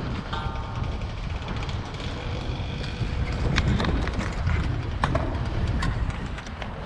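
Bicycle riding, heard from a camera mounted on the bike: a steady low rumble of wind and rolling tyres, with sharp rattles and knocks as the bike goes over bumps, and a brief ringing tone shortly after the start.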